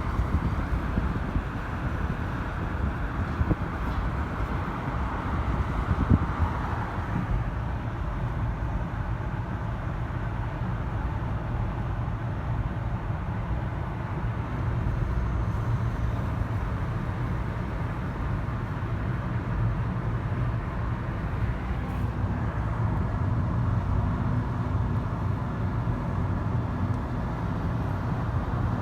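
Steady low rumble of a moving motor vehicle or road traffic, with a single knock about six seconds in.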